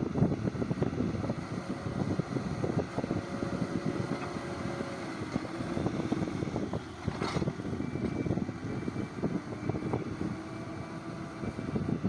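Backhoe loader's diesel engine running, with wind buffeting the microphone. A short hiss comes about seven seconds in, and a faint high beep repeats from about eight seconds in.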